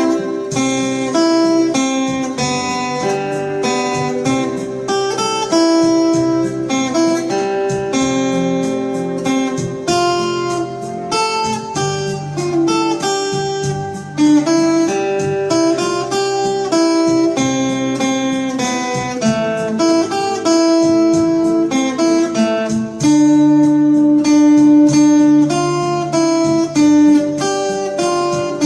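Acoustic guitar played solo, picking out a melody note by note over chords, with no singing.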